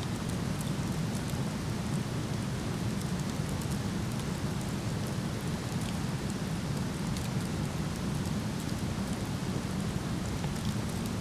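Steady rush of a waterfall, with scattered small crackles from a wood fire burning.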